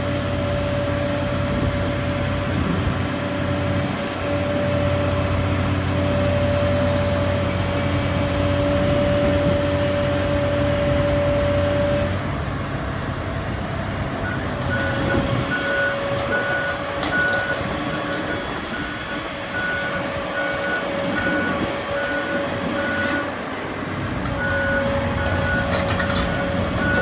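Hitachi Zaxis EX1200-6 mining excavator running, its diesel engine steady with a strong whine on top. About halfway through the sound shifts, and a regular beeping warning alarm starts, about two beeps a second.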